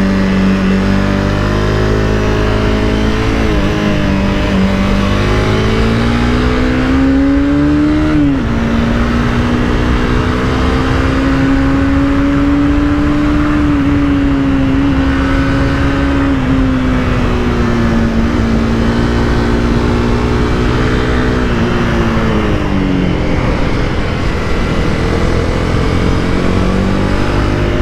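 Honda CBR300R's single-cylinder engine under way, revs climbing for the first eight seconds, dropping suddenly at a shift, holding steady, then easing off from about sixteen seconds and pulling up again near the end, over constant wind rush.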